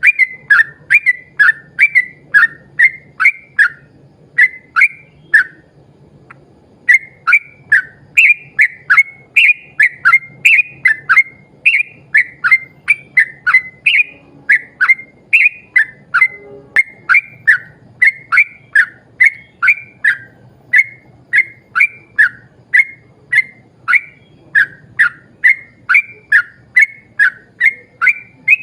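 Yellow-vented bulbul (trucukan) singing a long run of quick, loud whistled notes, about two a second, each a short bubbling slur, broken once by a pause of a second or so near the start.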